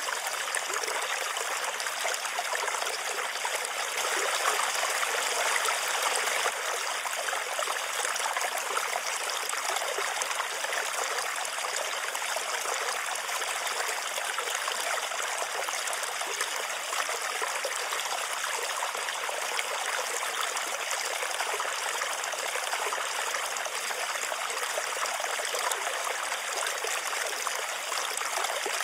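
Steady rain, an even hiss of falling water that runs on unbroken.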